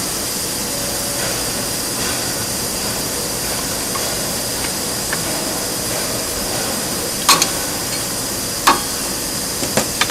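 Steady hiss of workshop machinery, broken by two sharp metallic taps about seven seconds in and again a second and a half later: small hammer taps used to break the taper of the grinding-wheel holder.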